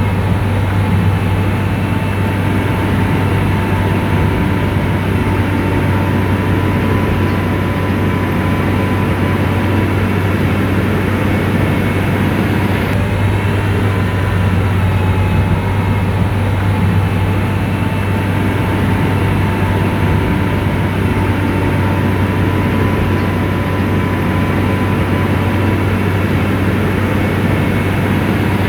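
Komatsu bulldozer's diesel engine running steadily: a constant low drone with a faint steady whine above it.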